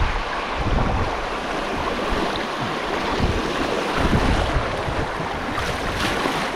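River water rushing around a kayak running down a stretch of moving water, with wind rumbling on the microphone.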